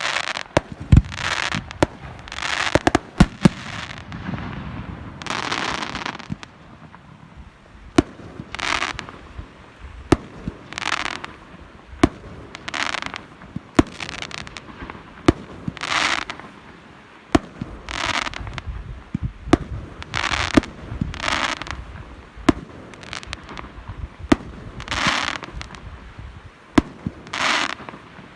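Fireworks display: sharp bangs and cracks going off throughout, with a hissing rush about every second or two.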